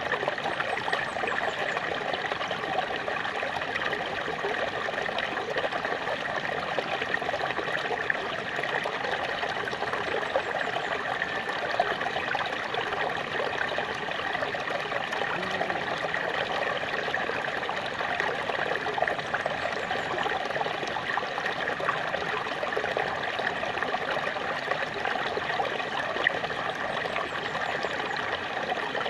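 Small waterfall splashing and trickling steadily, an even rushing with little irregular splashes.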